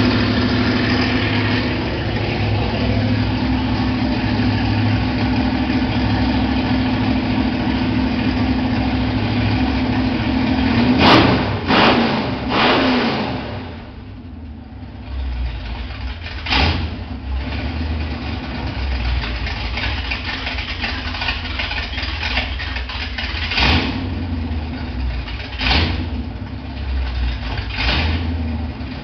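Dodge V8 engine running steadily at a raised speed, then revved sharply two or three times about eleven to thirteen seconds in and dropping to a lower idle, with short throttle blips every few seconds after that.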